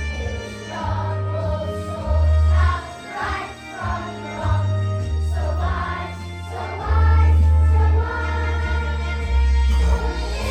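Children's choir singing a song over a musical accompaniment with a strong bass line that moves from note to note every second or so.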